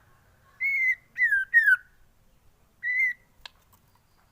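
White-rumped shama singing a short phrase of clear whistled notes: a held note, two quick notes sliding downward, then another held note, followed by a faint click.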